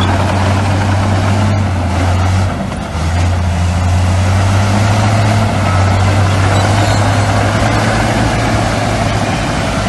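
Heavy diesel engine of a bulldozer or dump truck running steadily with a deep, continuous hum, dipping briefly in level about two and a half seconds in.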